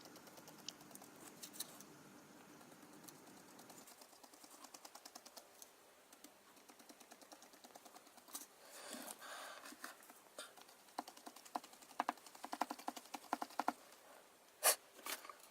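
Faint runs of quick, light tapping, with a few louder clicks near the end: a paintbrush being pounced (stippled) onto the painted card to dab on white foam.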